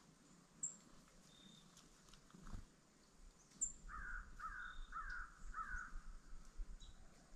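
A bird giving four harsh, falling calls in quick succession, about two a second, starting about halfway through, with a few faint high chirps from other birds.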